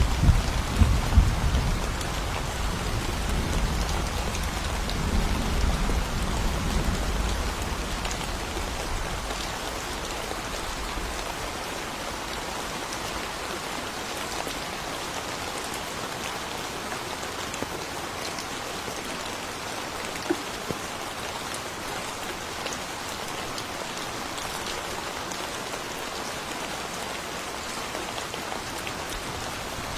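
Steady rain falling in a thunderstorm, with a low rumble of thunder dying away over the first ten seconds or so.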